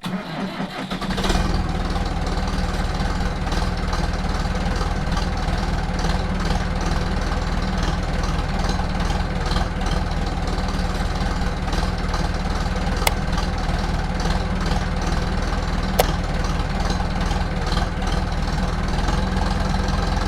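An engine starting up about a second in and then running steadily at idle, with two sharp clicks part way through.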